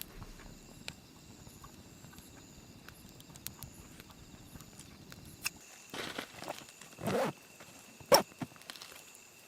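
Faint steady background for about five seconds. It then cuts out, followed by a few scattered rustles and knocks, the loudest a sharp click near the end.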